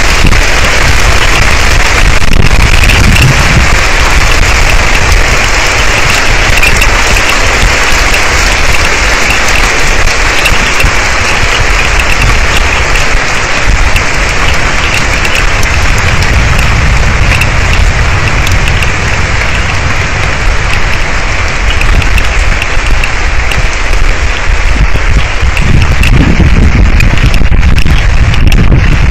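Heavy thunderstorm rain, a loud, steady downpour, with a low rumble swelling near the end.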